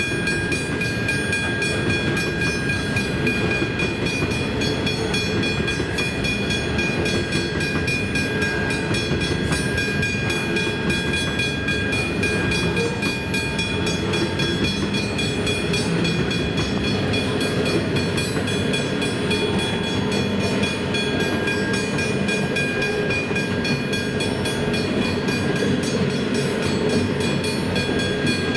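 Loaded coal hopper wagons rolling steadily across a level crossing, their wheels rumbling and clattering on the rails. Over it, a steady high ringing from the level crossing's warning bell.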